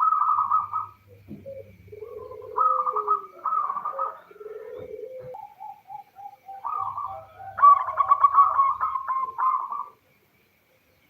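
Female zebra dove cooing in a string of short, repeated phrases, the call used as a lure to set male zebra doves singing; a quicker run of notes comes near the end before the calling stops about a second before the end.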